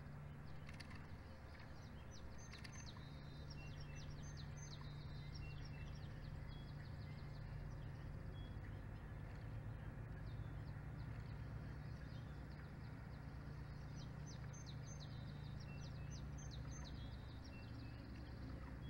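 A bird calling in two runs of quick high chirps and short whistled notes, the first about two seconds in and the second near the end, over a steady low hum.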